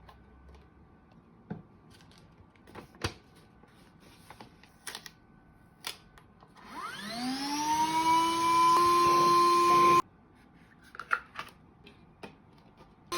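Cordless vacuum cleaner: a few clicks and knocks as it is handled, then its motor spins up with a rising whine, runs steadily for about three seconds and cuts off suddenly, followed by a few more clicks.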